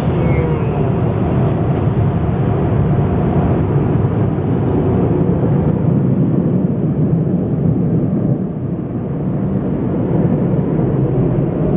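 Automatic car wash's high-powered air dryer blowers running over the car, a loud steady rushing noise heard from inside the car. It dips briefly about three-quarters of the way through.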